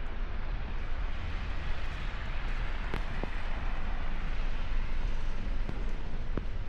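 Street ambience in a snowstorm: a steady rush of noise over a fluctuating low rumble, swelling a little mid-way, with a few faint clicks.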